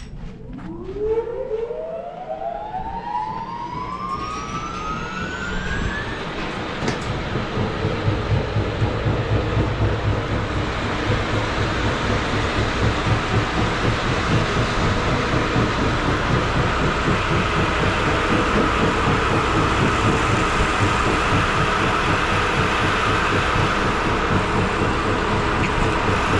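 Circular sawmill machinery starting up: a whine rising in pitch over about six seconds as it spins up to speed, then running loud and steady.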